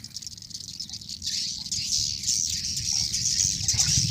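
A large flock of swiftlets calling overhead: a dense, continuous twittering of many high chirps, with a low rumble swelling near the end.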